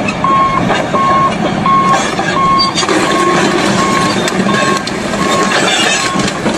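Vehicle reversing alarm beeping steadily, about three single-pitch beeps every two seconds, over the noise of a running vehicle.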